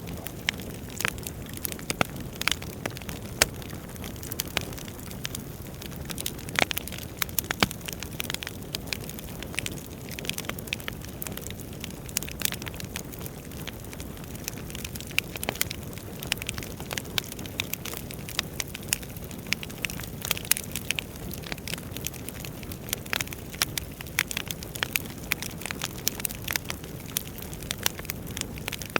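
Wood fire burning in a fireplace: a steady low rush of flames with frequent, irregular sharp crackles and pops from the burning logs.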